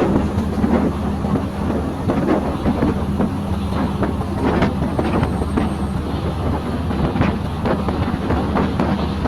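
Passenger train under way: a steady low drone with irregular rattles and knocks from the running carriage, and wind buffeting the microphone.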